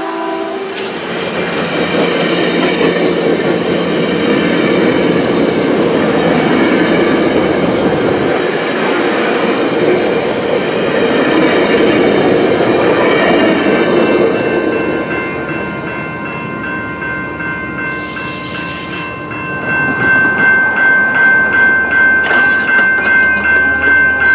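Metrolink commuter train's bilevel coaches rolling past at close range, then fading away about fifteen seconds in. About twenty seconds in, a bell starts ringing in an even rhythm, about two strokes a second.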